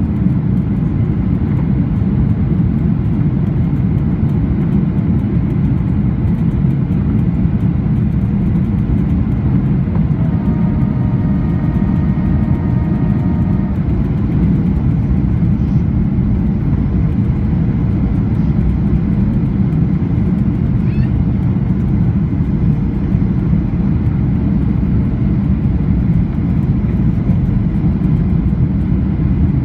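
Steady, loud cabin noise inside a Boeing 737-800: the rush of air over the fuselage and the drone of its CFM56 turbofan engines. A faint steady tone with several pitches sounds for about three seconds near the middle.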